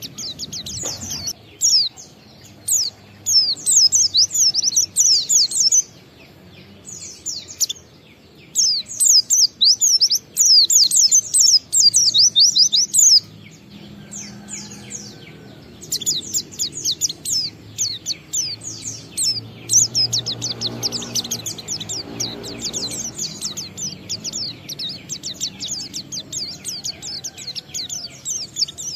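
Pleci (white-eye) singing a long, rapid, high-pitched twittering song of quick chirps in sustained runs, with short breaks about six and thirteen seconds in.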